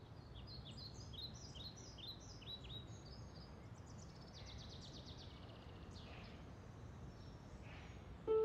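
Small songbirds chirping in a run of short, quick, falling notes, then a fast trill about halfway through, over faint low background noise.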